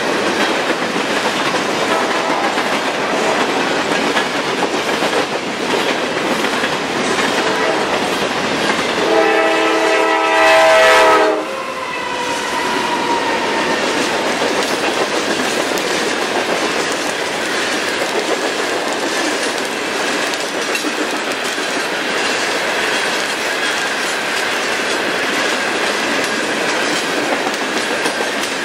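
Norfolk Southern coal hopper cars rolling past at close range with a steady rumble and clatter of wheels on rail. About nine seconds in, a diesel locomotive's air horn blows a chord for about two seconds, the loudest moment. Locomotives of a second train then pass alongside on the other track.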